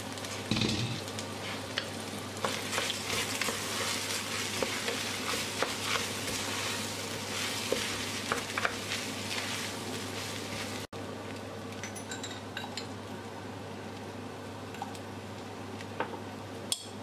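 Red lentils, bulgur and rice sizzling as they are sautéed with vegetables and tomato and pepper paste in a stainless steel pressure cooker, stirred with a wooden spoon that scrapes and taps against the pot. The sound cuts out for an instant about eleven seconds in, and afterwards the sizzle is quieter with fewer scrapes.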